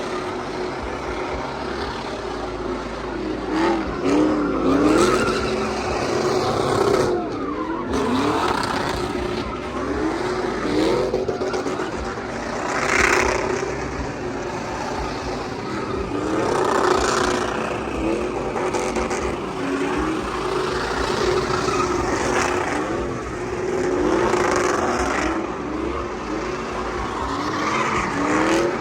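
Drift truck's engine revving hard, its pitch rising over and over, with tires squealing and skidding.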